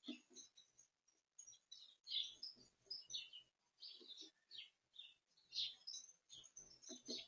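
Small garden birds chirping: short, faint high chirps coming in irregular bursts.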